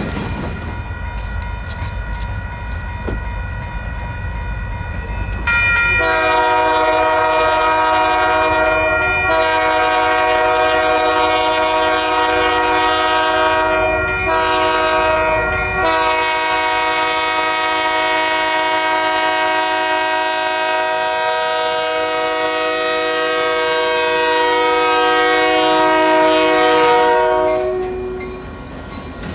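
Locomotive multi-chime air horn sounding the grade-crossing signal: long, long, short, long, the last blast held for about twelve seconds. Before it, a low rumble of the train.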